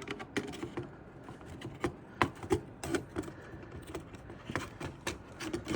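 Irregular light clicks and taps of hard plastic and metal parts being handled, two or three a second.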